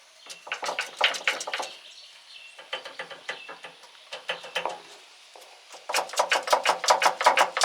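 Steel gears in the gearbox of a Greaves horizontal milling machine clacking as they are rocked back and forth by hand, in three runs of quick metal clicks, the last the fastest and loudest. The clatter is play in the gears: a little slop, but not too bad.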